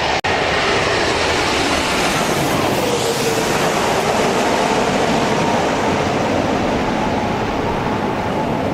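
Steady roar of an airliner's jet engines, with a faint held whine in the middle.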